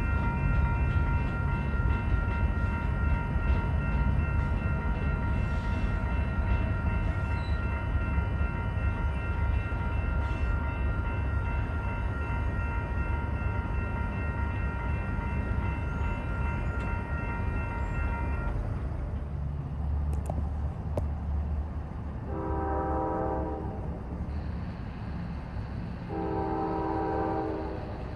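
A freight train rolls through a grade crossing with a low rumble while the crossing bell rings; the bell stops about two-thirds of the way through. Near the end a locomotive horn sounds two blasts of about a second and a half, a few seconds apart.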